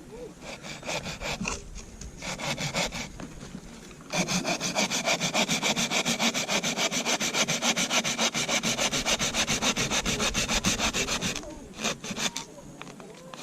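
Hand saw cutting through a piece of firewood with rapid, even back-and-forth strokes: a couple of short bursts first, then steady sawing for about seven seconds.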